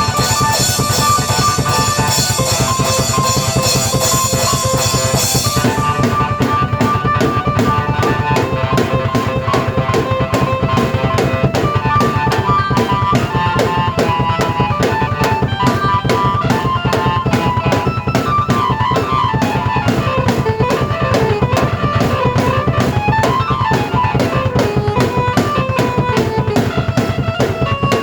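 Drum kit and keyboard played together as one performance, a steady beat under a keyboard melody. A bright cymbal wash rings through the first five seconds or so, then drops away.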